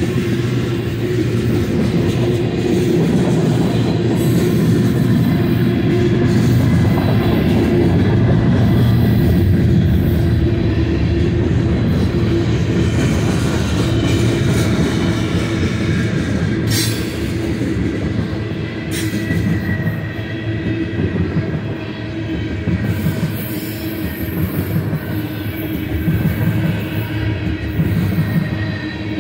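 Freight train cars, mostly tank cars, rolling past at close range: a steady, loud rumble of steel wheels on the rails, with a steady ringing tone over it. Two sharp clanks come a little over halfway through.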